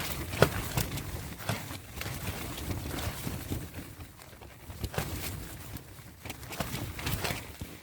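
Tarp shelter fabric flapping and snapping in gusty wind, with irregular sharp cracks over a steady rustle that swells and eases.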